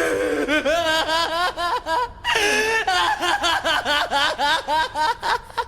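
A person laughing hard in a long run of quick, high-pitched repeated laughs, with a brief pause for breath about two seconds in.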